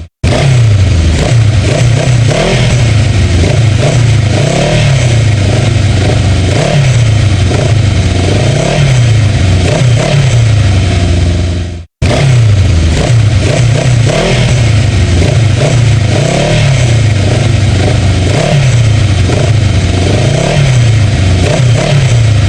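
Kawasaki 125cc motorcycle engine being revved over and over, its pitch climbing and falling back with each blip of the throttle. The sound cuts out for a moment about halfway through, then carries on.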